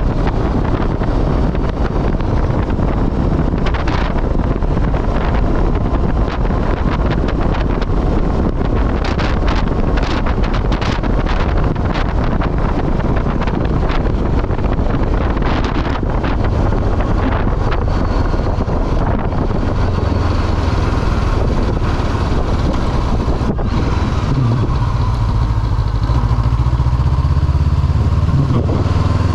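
Honda CB500F parallel-twin motorcycle engine running under way, with heavy wind rushing over the microphone and crackling gusts in the middle. Near the end the wind eases and the engine's low hum comes forward.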